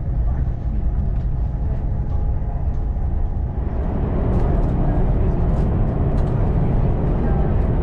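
Steady low rumble inside an ÖBB Railjet passenger carriage. It grows louder and fuller about three and a half seconds in, with faint clicks over it.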